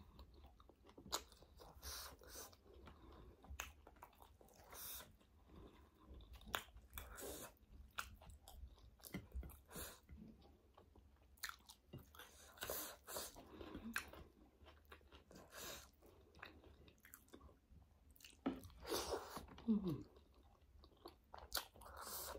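Close-miked chewing as a person eats flatbread and vegetable curry by hand, with many irregular short mouth clicks and crunches.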